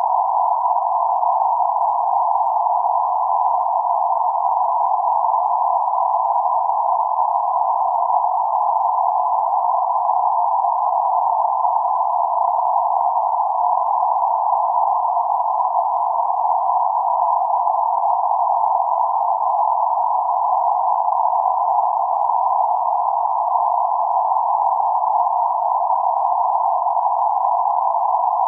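Steady band-limited noise centred around 848 Hz: a constant hiss confined to a narrow band of middle pitches, with no highs or lows, unchanging throughout.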